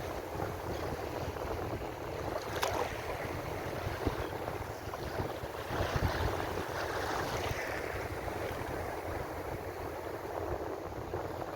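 Ocean surf: waves washing in continuously, with one wave's wash swelling louder about six seconds in. A single short, sharp crack comes about two and a half seconds in.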